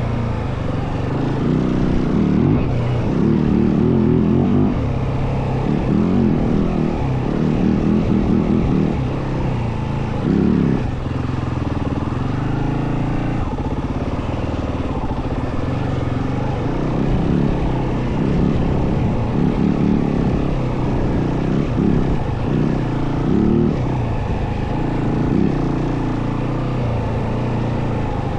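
Yamaha WR450F dirt bike's single-cylinder four-stroke engine running under way, its revs rising and falling again and again with the throttle.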